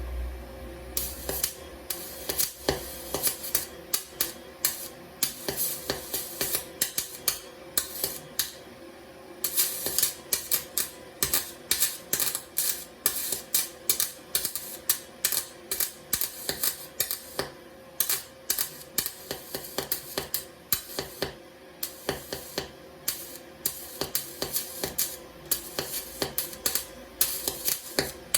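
Wire-feed (MIG) welder arc crackling and popping in irregular sharp bursts, several a second with short breaks, over a steady hum. The stuttering arc fits a wire feed that catches, which is the fault the owner reports with the new welder.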